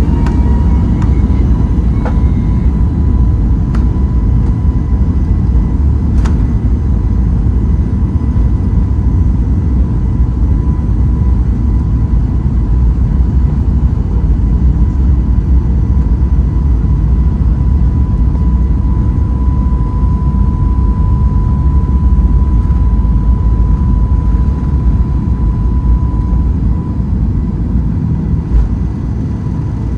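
Boeing 737 MAX 8's CFM LEAP-1B turbofan engines at takeoff thrust: a heavy, steady rumble with a steady whine on top. The whine fades out near the end, and a single click comes about six seconds in.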